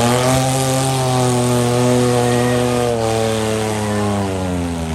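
Demolition derby vehicle's engine running hard at high revs, a steady drone whose pitch dips near the end.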